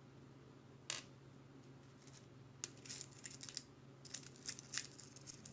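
Light clicking and rattling of small hard objects being handled: one sharp click about a second in, then a quick run of small clicks from about halfway through, over a faint steady hum.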